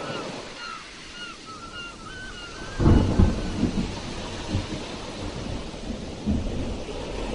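Sea waves breaking, with a sudden loud, low crash and rumble about three seconds in that fades in uneven surges. A run of short chirps sounds over the wash of surf before the crash.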